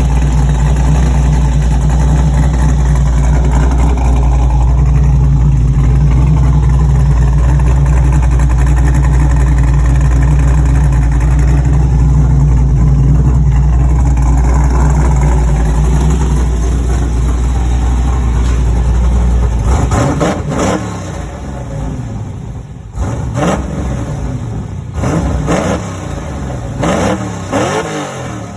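A 5.3-litre LS V8 with a Summit Stage 3 cam, breathing through a Holley 3-inch stainless exhaust, idles steadily for about twenty seconds. It is then revved in several quick blips, each rising and falling in pitch.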